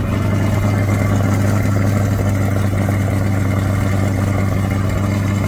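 2023 Chevrolet C8 Corvette Stingray's 6.2-litre LT2 V8 idling steadily just after start-up, heard at the exhaust tips.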